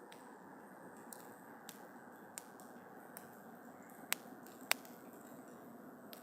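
Campfire of burning wood crackling over a steady low hiss, with scattered sharp pops; the two loudest come a little after four seconds and near five seconds.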